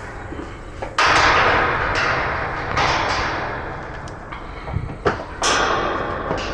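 Cargo van door opened with a sudden loud metallic rattle that trails off, then a few knocks and a second loud rattling bang near the end.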